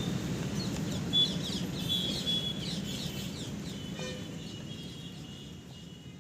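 Small birds chirping and twittering repeatedly over a steady low background hum of outdoor noise, the whole gradually fading out toward the end.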